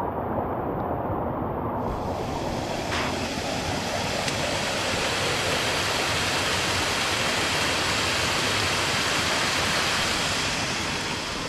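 Steady rushing of a small waterfall and its stream. The sound gets brighter and fuller about two seconds in.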